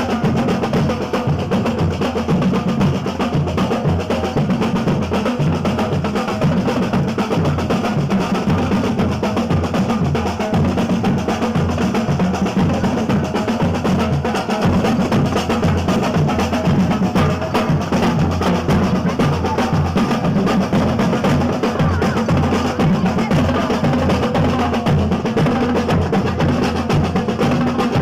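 Brass band music dominated by drums and percussion, a dense, steady, loud beat.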